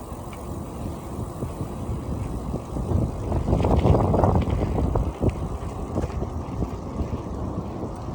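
Wind buffeting the microphone of a camera on a moving bicycle: a low, gusty rumble that swells about four seconds in, with a few faint ticks.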